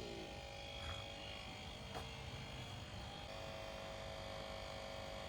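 Faint steady hum with a few thin, even tones and a light click about two seconds in.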